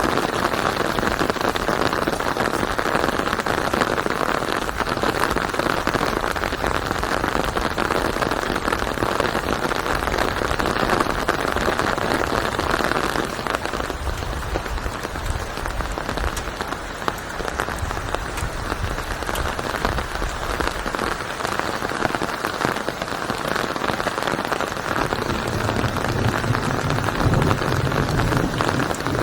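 Steady, heavy rain falling on a surface, a dense even patter. A low rumble builds in during the last few seconds.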